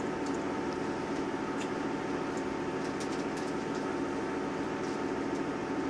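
Steady drone heard inside the saloon of a Class 159 diesel multiple unit: the underfloor diesel engine's hum and the running noise of the train, with a few faint clicks now and then.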